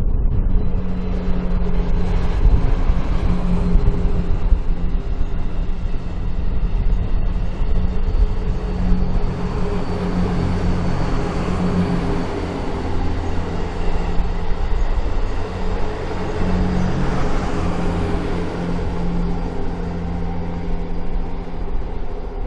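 JR West Twilight Express Mizukaze, an 87-series diesel-electric hybrid train, passing slowly at close range. A steady low engine hum runs over the rolling noise of its wheels on the rails.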